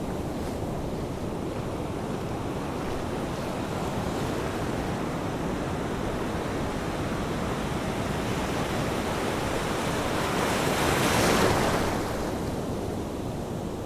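Ocean waves washing ashore: a steady rush of surf, with one larger wave swelling and breaking about eleven seconds in before it eases off.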